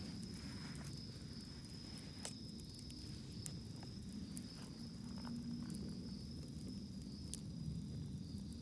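Wood campfire burning in a fire grill, giving scattered sharp crackles and pops over a low steady rumble, with a steady high insect trill behind it.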